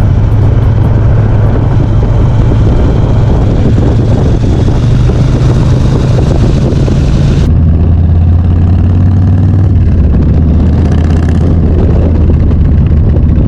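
Motorcycle engine running steadily with a deep low drone and a hiss over it. About seven and a half seconds in, the hiss cuts off abruptly and the drone drops slightly lower and carries on.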